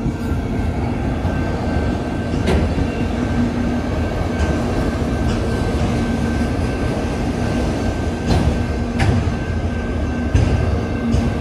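Autorack freight cars rolling past close by: a steady low rumble of wheels on rail, a thin steady whine over it, and a few sharp clacks at irregular moments.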